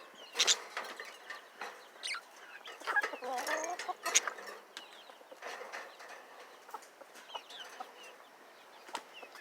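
Budgerigars chirping and chattering in short, scattered high calls, busiest a few seconds in, with a few sharp clicks among them.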